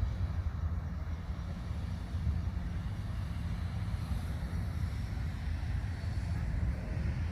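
A steady, deep rumbling noise with no distinct events.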